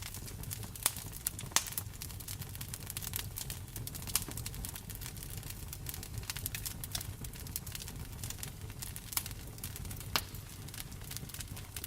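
Wood fire in a fireplace crackling, with frequent small snaps and a few sharper pops, over a steady low rumble and the even hiss of rain.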